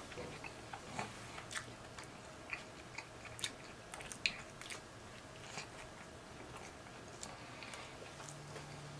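Close-up mouth sounds of a man chewing a mouthful of sandwich: irregular wet clicks and smacks, busiest in the first half.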